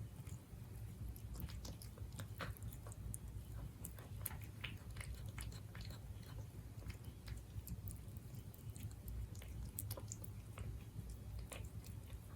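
Siberian cat chewing and biting its food: a run of small, irregular clicks and crunches over a low steady hum.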